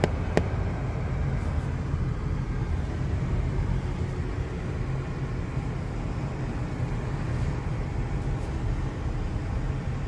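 Steady low road and engine rumble inside a moving car, with one sharp click about half a second in.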